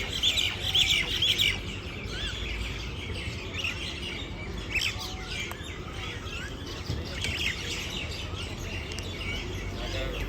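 Many small birds chirping and twittering together in a busy morning chorus, densest in the first second and a half, over a steady low background rumble.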